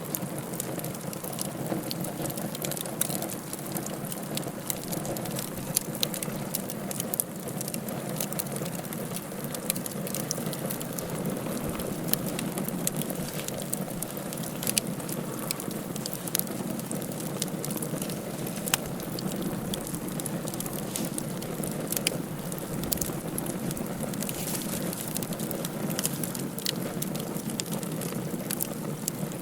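Wood fire in a fireplace crackling, with frequent irregular sharp pops over a steady rush of burning.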